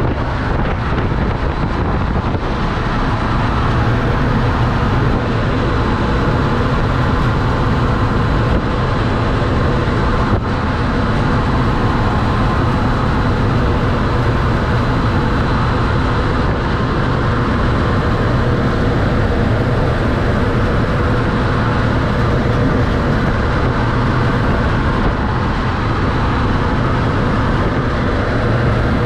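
Steady, loud rush of wind blown by a hurricane simulator's fans.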